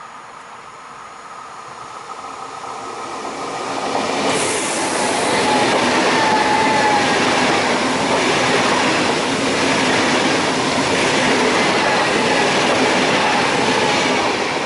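PKP Intercity Pendolino (ED250) electric high-speed train passing through the station at speed. Its rush of wheels on rail and air swells over the first four seconds as it approaches, then stays loud and steady while the carriages go by.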